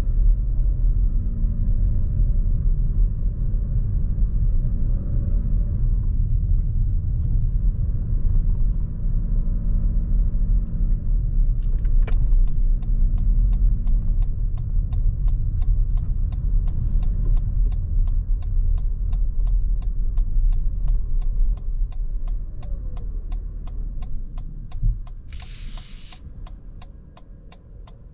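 Low road and drivetrain rumble inside the cabin of a Lexus NX350h hybrid SUV on the move. About twelve seconds in, an even ticking starts at a few ticks a second, like a turn-signal indicator. Near the end the rumble fades as the vehicle slows, with a brief hiss.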